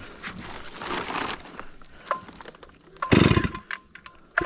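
Stihl MS 382 two-stroke chainsaw being pull-started on choke: the recoil starter cord is pulled, and the engine fires briefly about three seconds in and again at the very end without yet running on.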